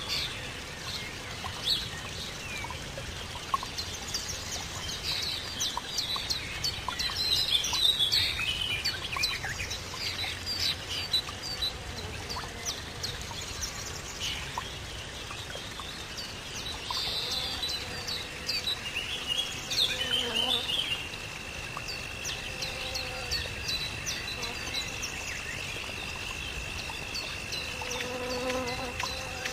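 Birds chirping and calling, many short high notes overlapping. About two-thirds of the way through, a steady high-pitched whine starts and holds.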